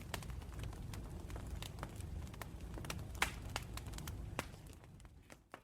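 Campfire burning: burning wood crackling with irregular sharp pops over a low steady rumble of the flames, fading out near the end.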